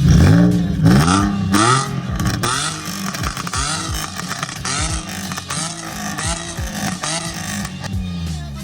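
Nissan 350Z's V6 revved through a newly fitted HKS exhaust and Megan Racing hi-flow cats, loud. It gives three sharp revs in the first two seconds, then a string of shorter, quieter blips.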